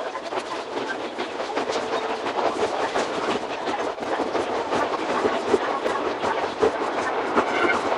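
Iga Railway 200-series electric train (ex-Tokyu 1000 series) running on the line, with dense rapid wheel clicks over rail joints and running noise, sped up six times.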